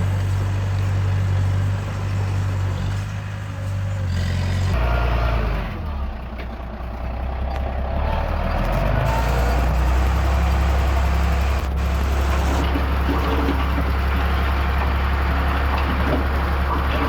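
Heavy diesel earthmoving machinery running: a low, steady engine note from a bulldozer or dump truck at work. The engine sound shifts abruptly about five seconds in, dips briefly, then settles into a steady drone.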